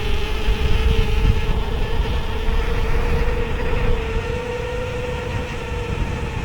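Whyte 160 e-bike's mid-drive motor whining steadily under pedal assist, one tone with overtones that drifts slightly up and down, over wind rumble on the microphone.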